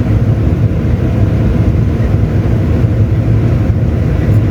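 Combine harvester running while reaping barley: a steady, loud, low machinery drone heard from inside the cab.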